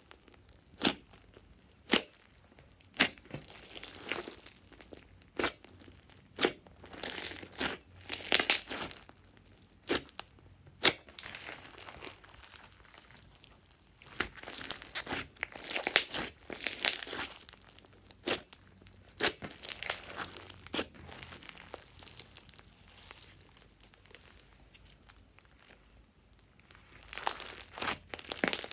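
Glossy slime being squished and stretched by hand, making sharp sticky pops and bursts of wet crackling that come and go, with quieter gaps between.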